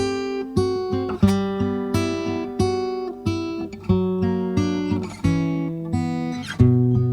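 Background music: an acoustic guitar playing plucked notes and chords at a moderate pace.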